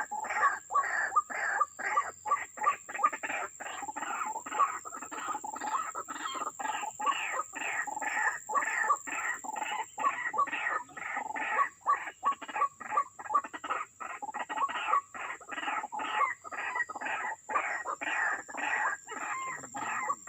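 White-breasted waterhen (ruak-ruak) calling: a rapid, repeated series of short call notes, about two or three a second, going on without a break.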